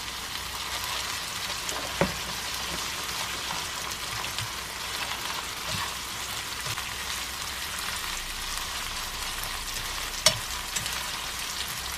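Tofu noodles with shrimp and vegetables frying in olive oil in a pan, a steady sizzle as they are stirred and tossed. Two sharp taps, one about two seconds in and a louder one near the end.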